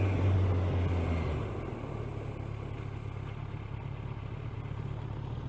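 Kawasaki ER-6n motorcycle's parallel-twin engine running at low revs, its steady tone dropping back about a second in and staying low.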